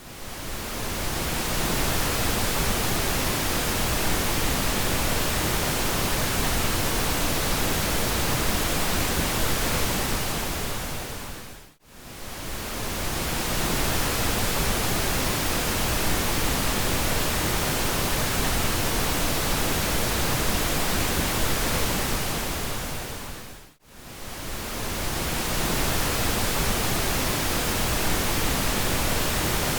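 Pink noise: a steady, even hiss spread across all pitches. Twice it drops briefly to near silence and fades back up over a second or two, about twelve seconds apart, where the loop restarts.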